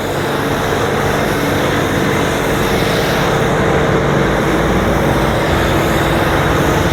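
Electric pressure washer running with a foam cannon spraying foam: a steady motor hum under a loud hiss of spray, building up over the first half second.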